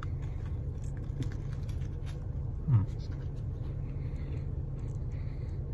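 A person chewing a mouthful of breakfast sandwich, with faint mouth clicks and one short falling "mmm" about two and a half seconds in. A steady low hum inside the car's cabin runs underneath.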